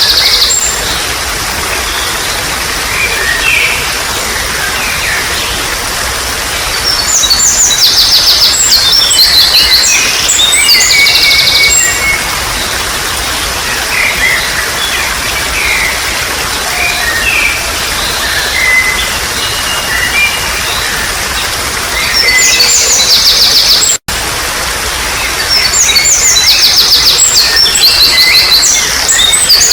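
Songbirds singing over steadily trickling water, with bursts of rapid, high repeated notes and scattered short chirps between them. The sound cuts out for an instant about 24 seconds in.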